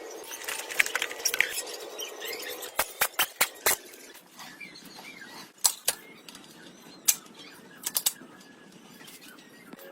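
Sharp, irregular clicks and knocks, some in quick clusters, over a faint scraping hiss.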